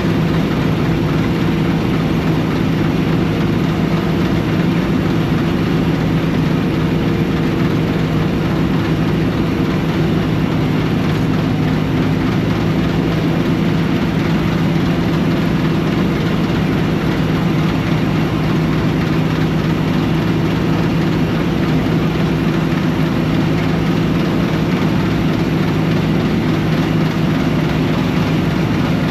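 Combine harvester's diesel engine and machinery running steadily, a constant heavy drone with a few fixed tones and no change in speed.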